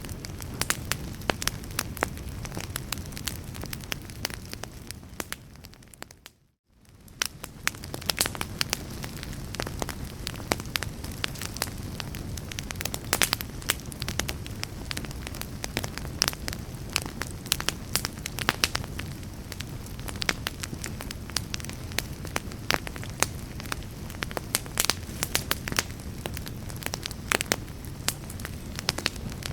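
Wood fire in a fireplace crackling and popping with many sharp snaps over a steady low rumble. About six seconds in the sound fades briefly to near silence and then comes back.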